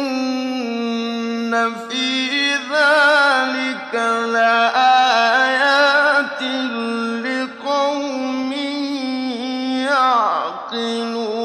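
A man's voice reciting the Quran in the melodic mujawwad style, drawing out long held, ornamented notes in phrases with brief breaks between them, and sliding down in pitch near the end.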